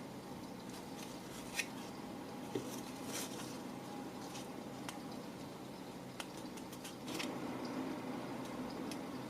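Scattered small clicks and taps, about half a dozen spread unevenly, over a steady low hum.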